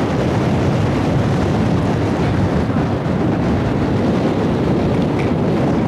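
Strong gusty wind buffeting the microphone, a loud, steady low rumble.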